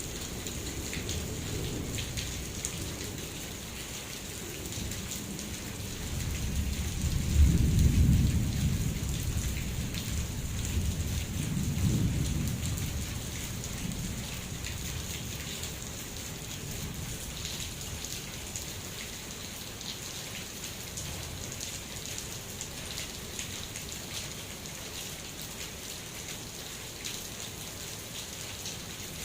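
Rain falling steadily, with a deep rolling thunder rumble that builds a few seconds in, swells twice and then dies away.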